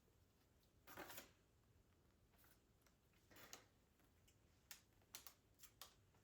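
Faint household handling sounds: two brief soft rustles, then a few light clicks near the end.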